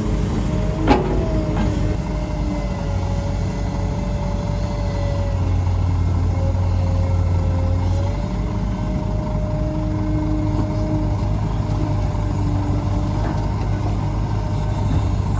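Heavy diesel construction machinery running steadily, with a wavering whine over the low engine note and a single sharp clank about a second in.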